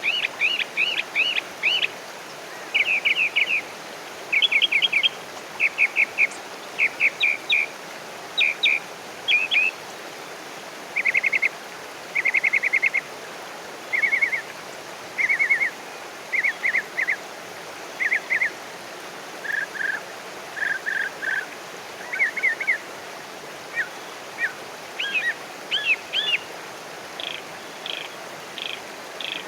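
Bird chirping in short runs of quick, high notes, a cluster roughly every second, over a steady hiss of background noise.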